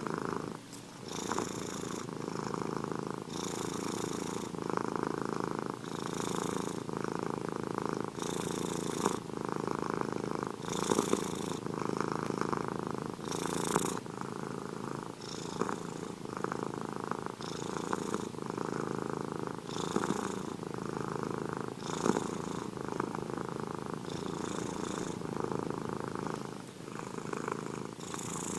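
A domestic cat purring steadily and close up, the purr swelling and easing with its breathing about every second or two.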